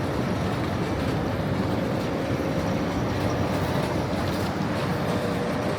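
Train in a railway station: a steady, even rumble with a faint steady tone riding over it.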